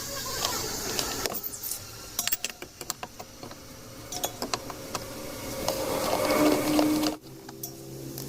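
Hand tools working on the washing machine's motor mounting, irregular metallic clicks and knocks, with a louder grinding stretch that builds up and then cuts off abruptly about seven seconds in.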